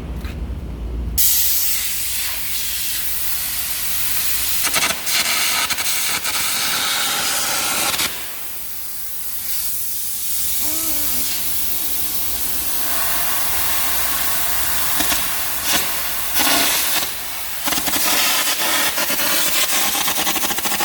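Welding: a loud, steady hiss with irregular crackles that starts suddenly about a second in. It eases off for about two seconds near the middle, then starts again.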